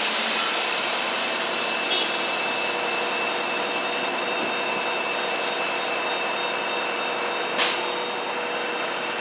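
Steady road traffic noise with a faint whine, slowly fading, and a single sharp click about seven and a half seconds in.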